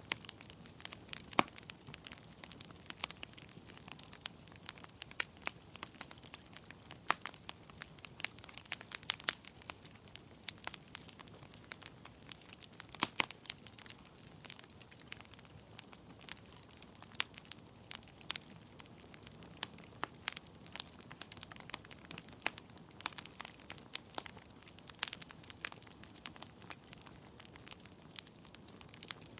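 Wood fire burning in a fireplace: burning logs crackling and popping in irregular sharp snaps, a few louder pops among them, over a soft steady hiss of the flames.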